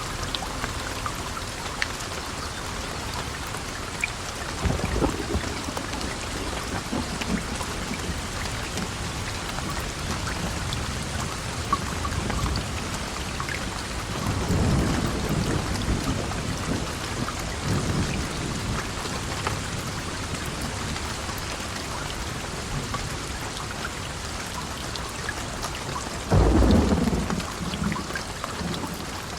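Steady heavy rain with thunder rumbling several times: a short rumble about five seconds in, longer rolls in the middle, and the loudest clap near the end.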